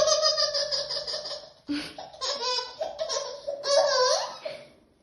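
A young child laughing hard in several high-pitched bouts, the sound breaking off briefly between them.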